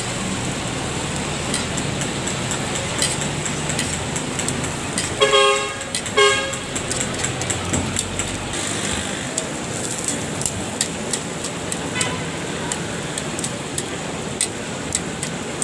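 Parathas sizzling in oil on a large flat iron griddle (tawa), with metal tongs clicking against the griddle as they are turned. A vehicle horn toots twice, about five and six seconds in, over street traffic.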